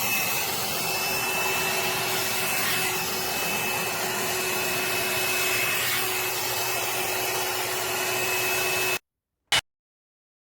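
Hot air brush (hair dryer brush) running: the steady rush of its fan with a faint steady whine. It stops suddenly about nine seconds in, followed by a single short click.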